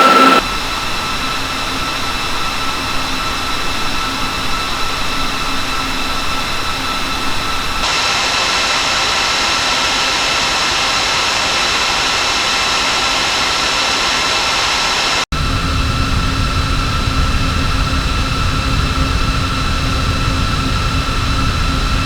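Home server's cooling fans running steadily: a whir with several high, steady whining tones over it. The sound changes abruptly about half a second in and again about eight seconds in. At about fifteen seconds a brief dropout is followed by a stronger low rumble, as from a different fan-speed setting.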